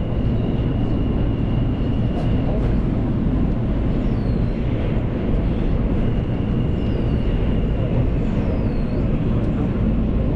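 F subway train running along the track with a steady low rumble. A thin high whine comes and goes twice, and faint brief squeals come from the wheels on the rails.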